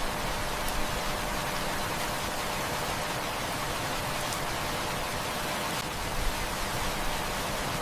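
Heavy rain falling steadily, an even dense hiss, with a few faint ticks now and then.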